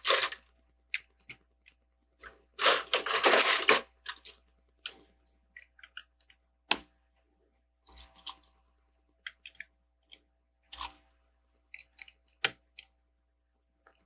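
Plastic Lego bricks clicking and rattling as they are handled and pressed together, in scattered short clicks with a longer burst of rattling about three seconds in.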